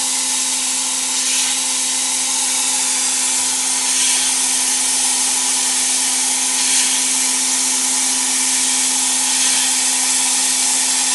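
Gas-dynamic cold-spray gun blasting metal powder onto a rotating steering rack: a steady, loud rush of compressed air with a constant electrical hum underneath.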